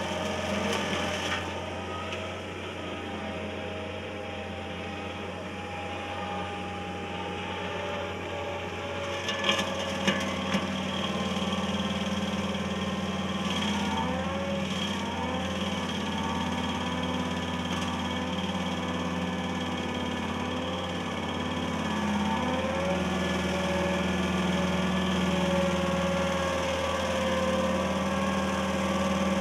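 Stump grinder running, its engine holding a steady note whose pitch sags and recovers as it takes load. A few sharp knocks about ten seconds in.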